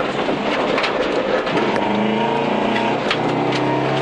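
Subaru Impreza 2.5RS rally car's flat-four engine heard from inside the cabin, pulling on gravel with its pitch climbing about halfway in. A few sharp clicks of stones flicked against the car break through.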